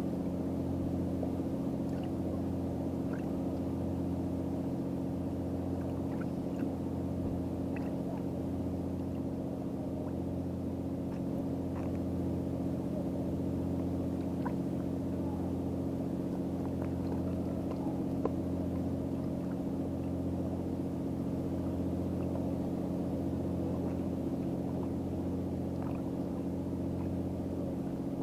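An engine idling steadily: a low, unchanging hum made of several fixed tones.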